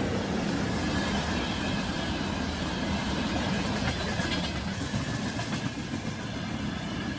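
Freight train of open gondola wagons, hauled by an electric locomotive, rolling past. Its wheels make a steady rolling noise on the rails.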